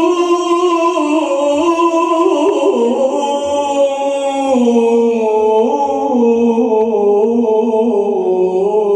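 Unaccompanied male voice singing a long, drawn-out melismatic note in Islamic praise chant (manqaba), its pitch wavering and slowly sinking.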